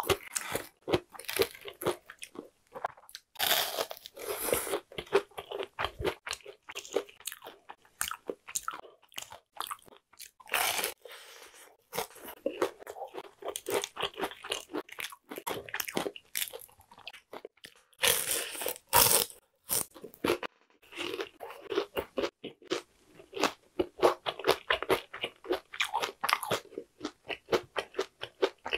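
Close-miked chewing of crispy deep-fried food, fried shrimp and breaded shrimp balls: a fast run of crisp crunches of batter, with louder bites about 3, 11 and 18 seconds in.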